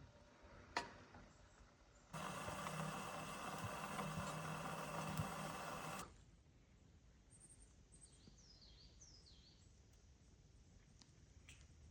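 A steady rushing noise with a low hum sets in abruptly about two seconds in and cuts off about four seconds later. Then small birds chirp over and over, short high calls that fall in pitch.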